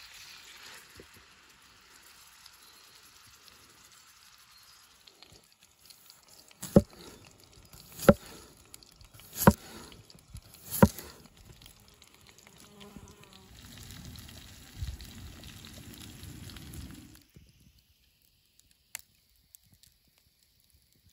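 Minced meat frying in a pan over a campfire, a faint steady sizzle. Midway come four sharp knocks about a second and a half apart, then a low rumble, and the sound cuts off to near quiet near the end.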